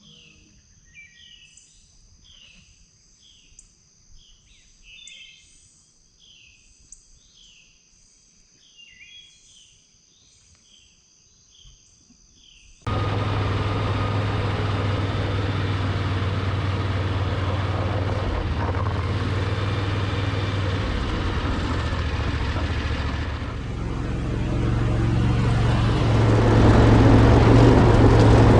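Small birds chirping over and over, quietly. About thirteen seconds in, this cuts abruptly to a garage door opener's motor running loud and steady with a low hum. The sound grows louder again about eleven seconds later.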